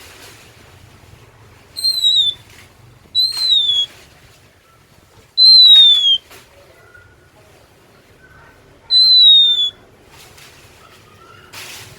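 Oriental magpie-robin (kacer) singing four loud, clear whistles, each falling in pitch and lasting under a second, with a few faint softer notes between them.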